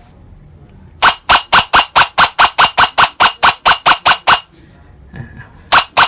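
PTW airsoft rifle, its motor fitted with a replacement Mag armature, test-firing: a run of about sixteen sharp shots at roughly five a second starting about a second in, then one more shot near the end.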